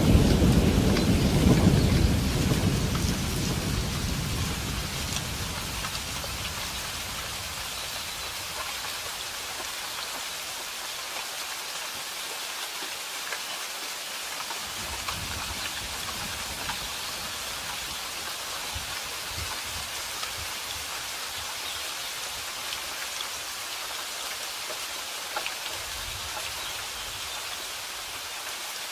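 Steady rain falling, with a low thunder rumble that dies away over the first few seconds and a few faint low rumbles later.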